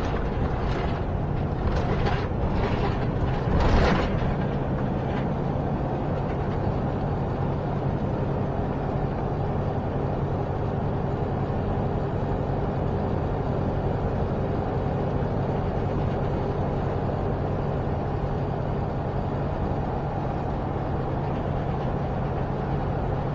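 Semi-truck cab interior while driving: the diesel engine drones steadily under road and wind noise. A few short knocks in the first seconds, the loudest just before four seconds in.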